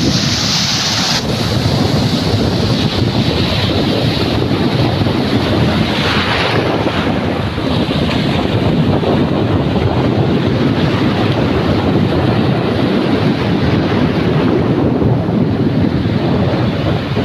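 Sea surf breaking on the beach, with wind buffeting the microphone; brighter surges of the waves come near the start and about six seconds in.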